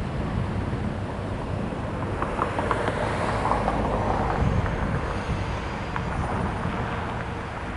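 Low, steady rumble of a train moving away from a grade crossing, with wind on the microphone.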